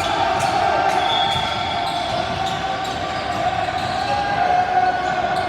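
Basketball dribbling on a hardwood gym court during play, with the steady hubbub of voices echoing around a large gym.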